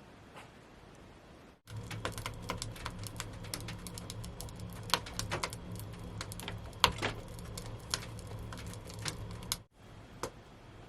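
Wood fire crackling and popping, with a steady low rumble under the dense, irregular pops; it starts abruptly about two seconds in and cuts off abruptly near the end.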